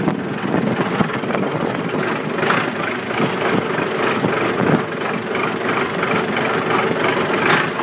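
John Deere 2555 tractor's diesel engine running steadily while still cold from a cold start.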